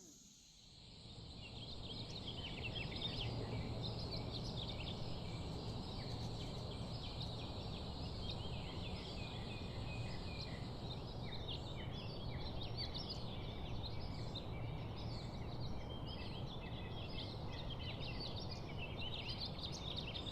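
Outdoor ambience: many small birds chirping and calling in quick short notes, over a steady low background rush and hum.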